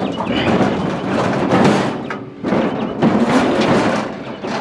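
Scrap items being shifted and dragged on a trailer bed: rough scraping and clattering with knocks, in two long stretches with a short break a little past halfway.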